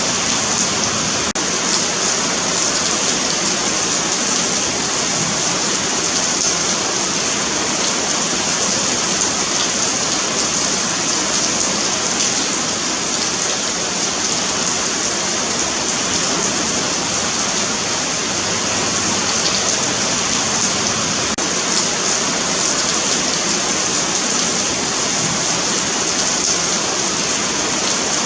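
Steady rain falling on a pavement sidewalk, a continuous hiss of drops without letup.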